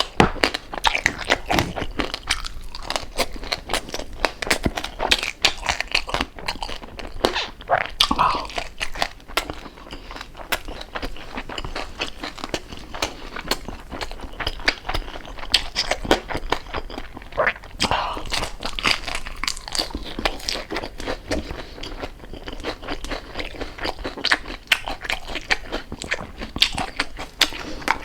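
Close-up crunching and chewing of crispy fried pork jowl: a dense run of sharp crackly crunches, bite after bite.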